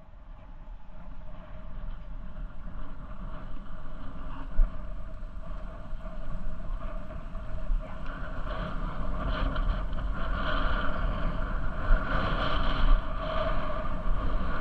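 Wind buffeting the microphone of a camera carried on a moving bicycle, a heavy fluttering rumble, with a steady whooshing hum of riding that grows louder about halfway through.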